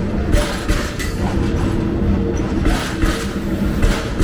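Philippine National Railways passenger train passing close by: a steady rumble of the cars rolling on the track, with wheels clacking over the rail joints several times.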